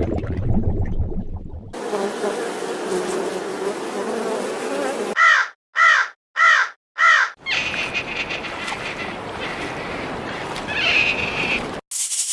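Four loud, harsh caws of a crow in quick succession, about 0.6 s apart, set between other short animal clips: a steady buzz before them and a noisier stretch with high chirps after.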